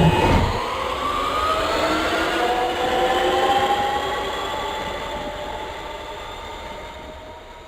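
Electric traction motors of a Lisbon Metro ML90 train whining, in several tones that rise slowly in pitch as the train picks up speed. A low hum drops out about half a second in, and the sound fades toward the end.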